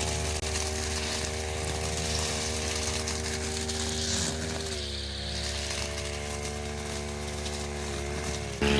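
A motor or engine running steadily, its pitch dropping slightly about five seconds in and the sound getting suddenly louder near the end.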